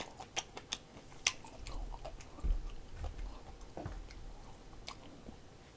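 A person chewing food close to the microphone, with many short wet clicks and smacks of the mouth.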